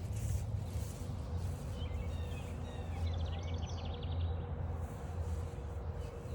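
Woodland birds singing: short whistled phrases and a fast trill about three seconds in. Underneath are footsteps and a steady low rumble from walking.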